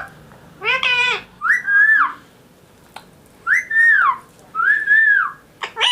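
Indian ringneck parrot making about five short, high whistled calls, each rising and then falling in pitch, with a pause in the middle.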